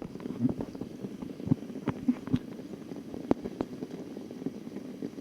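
Rain falling, a steady hiss with irregular sharp taps of drops landing close by.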